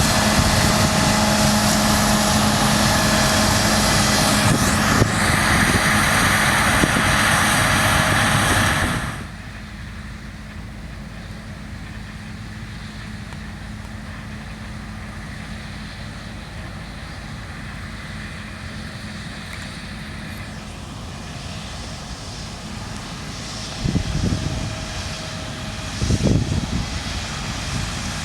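Claas Lexion 7600 combine harvester running while cutting beans: a steady engine tone under loud machinery noise. About nine seconds in the sound drops suddenly to a quieter, more distant hum with the same tone, and a few short low thumps come near the end.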